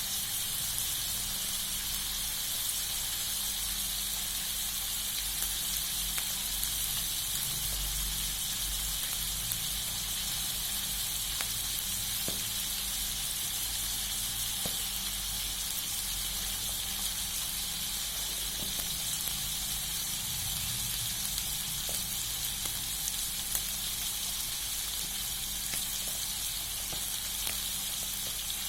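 Food frying in hot oil: a steady sizzle with scattered small pops.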